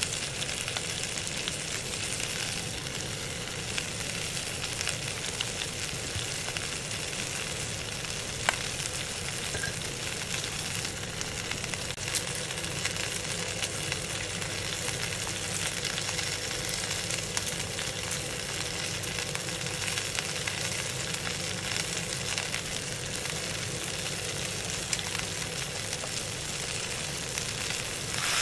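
Chicken wings frying in a metal pot: a steady sizzle with fine crackling. Two sharper clicks stand out, about eight and twelve seconds in.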